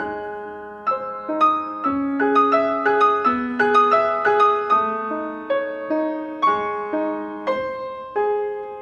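Solo piano playing a slow, gentle melody of single struck notes over held chords, each note ringing and fading, the last chord sustained near the end.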